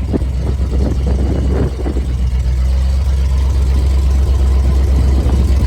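Engine of a 1983 Ford F700 truck running steadily at idle with a deep, steady rumble.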